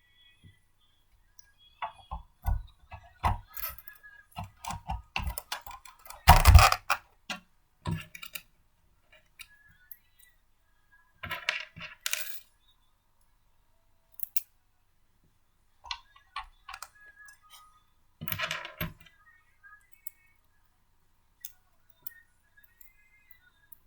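Small hard parts of a blender being handled and fitted together by hand: scattered clicks, knocks and clinks with short pauses between. The loudest clatter comes about six seconds in, with shorter bursts later.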